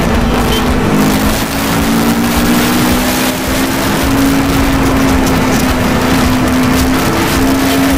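CFMoto 400NK motorcycle's parallel-twin engine running at a steady cruise, its note rising a little over the first few seconds and then holding, under heavy wind rush on the microphone.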